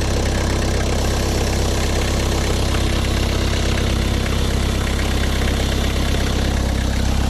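Renault 19 diesel engine idling steadily with the clutch pedal released, carrying the odd noise that the owner says goes away when the clutch is pressed.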